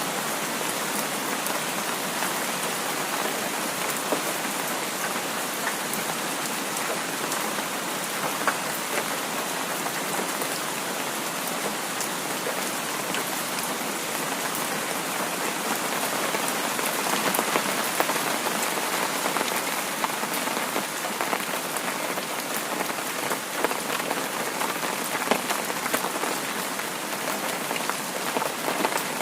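Heavy rain falling steadily, a dense hiss with many small drop ticks, swelling slightly about two-thirds of the way through.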